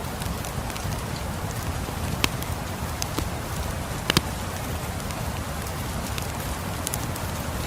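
Steady rain falling, with a wood fire crackling over it: scattered sharp pops, the loudest one about two seconds in and a quick double crack about four seconds in.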